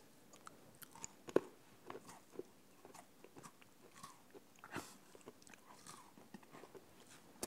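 A person faintly chewing a sugar cookie, with small irregular crunches and a louder crunch about a second and a half in and again near five seconds.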